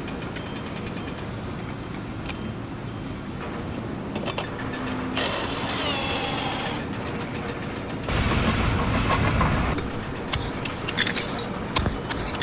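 Machinery running steadily, with a short burst of hiss about five seconds in, a louder low rumble around eight seconds, and scattered clanks and clicks.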